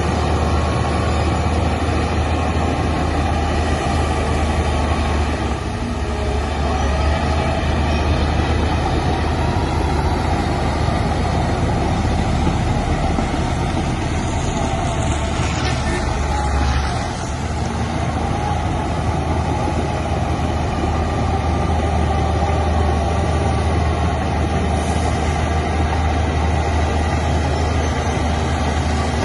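Heavy diesel engine of earthmoving machinery running steadily with a low drone, dipping briefly about seventeen seconds in.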